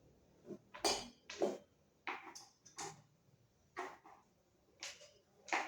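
Short irregular rustles, scrapes and clicks of plastic fan parts being handled and fitted together during assembly, about ten separate sounds.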